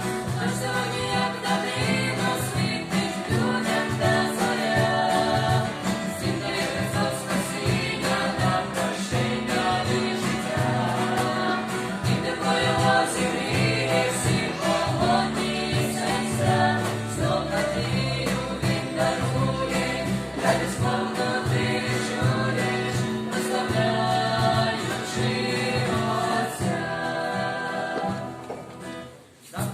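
A vocal group singing together in chorus over instrumental backing with a steady bass line; the music drops away briefly near the end.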